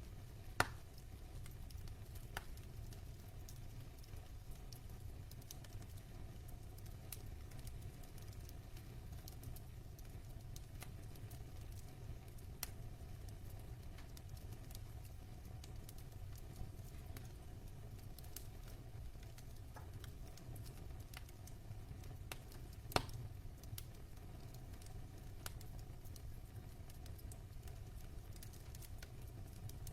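Logs burning in a fireplace: scattered crackles over a low steady rumble, with two louder pops, one just after the start and one about three-quarters of the way through.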